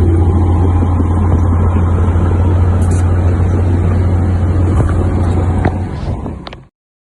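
Heavy diesel machinery engine running steadily with a loud low hum, fading and cutting off just before the end.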